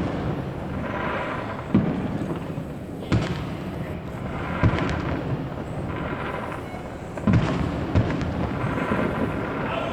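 Aerial fireworks: five sharp bangs of shells bursting, each followed by a few seconds of crackling.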